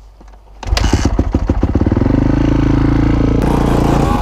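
Dirt bike engine starting up about a second in, catching with a few separate firing strokes and then running steadily.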